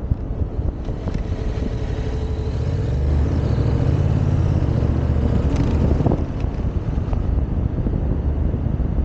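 Wind buffeting the microphone of a moving motorcycle, with a vehicle engine growing louder about three seconds in and dropping away about six seconds in.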